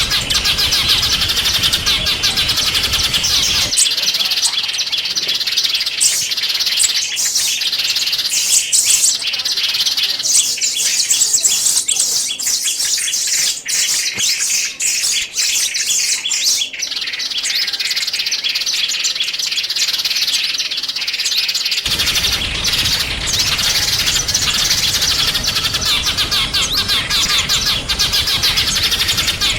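Small songbirds chirping and twittering in a dense, high-pitched chatter. About four seconds in, the background noise drops away and the calls become sharper and more spaced. Near the end the denser chatter returns over the noise.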